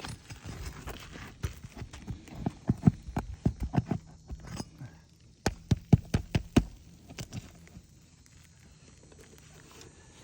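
Irregular sharp knocks and taps of a hand tool working nails out of asphalt roof shingles, coming in quick clusters for several seconds, then dying down near the end.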